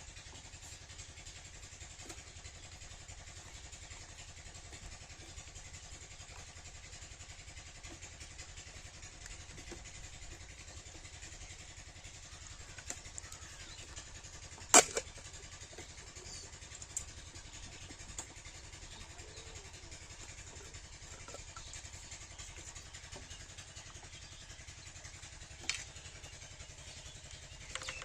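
7 HP diesel water-pump engine running steadily, with one sharp knock about halfway through and a fainter click near the end.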